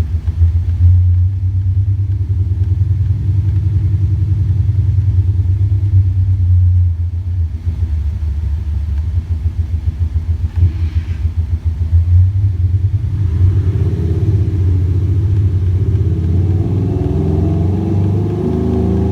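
Porsche Cayenne Diesel with a Maxhaust active sound booster producing a Maserati-style engine note: a deep, steady rumble that rises in pitch with the revs over the last few seconds.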